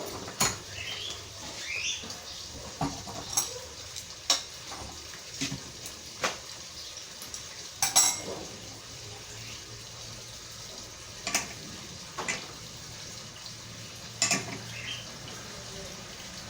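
Metal clinks and knocks as a bicycle wheel hub is clamped by its axle nut in a bench vise, about ten sharp separate strikes spread over the stretch.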